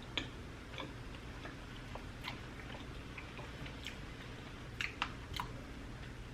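Close-miked chewing of soft bread pudding: quiet wet mouth clicks and smacks scattered through, with a short cluster of them about five seconds in.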